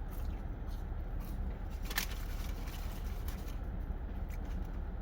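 Small clicks and crackles of eating and handling fast food, the sharpest about two seconds in, over a steady low background rumble.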